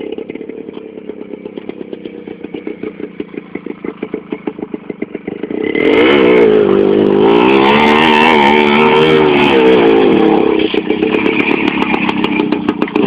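Two-stroke IZh motorcycle engine running with an even pulsing beat, then revved hard about six seconds in, its pitch rising and falling for a few seconds before it runs on loud.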